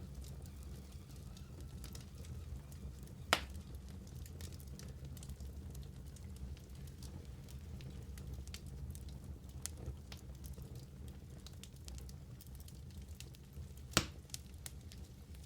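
Wood fire burning in a fireplace: a steady low rumble with constant small crackles, and two sharp loud pops, one about three seconds in and one near the end.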